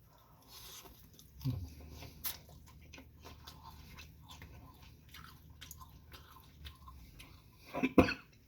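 A person chewing food with many small wet mouth clicks and smacks, and a short vocal sound near the end.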